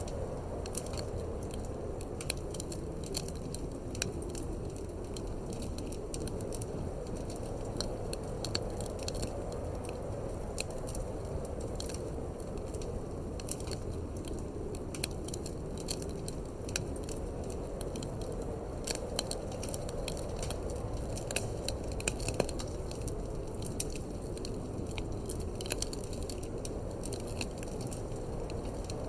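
Wood fire crackling in a fireplace, with frequent irregular sharp pops over a steady low rush of wind.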